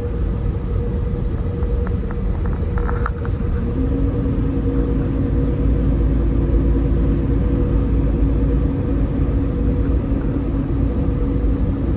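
Semi-truck diesel engine running with a steady low rumble and hum; a second, lower steady tone joins about four seconds in, and a few light clicks come around the two-to-three-second mark.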